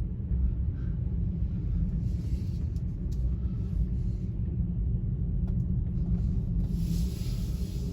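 Steady low road and tyre rumble of a Tesla Model Y driving slowly, with no engine note, as the electric car has none. A brief rush of hiss rises and fades near the end.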